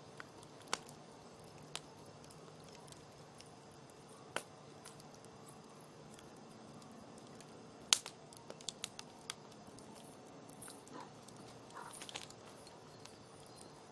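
Campfire crackling: scattered sharp pops of burning wood over a low steady hiss, the loudest pop about eight seconds in, followed by a quick run of smaller pops.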